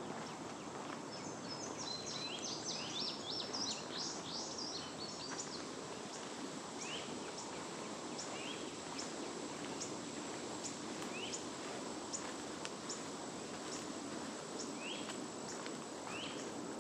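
Songbirds singing: a quick tumble of high notes in the first few seconds, then single short rising chirps every few seconds, over a steady outdoor hiss.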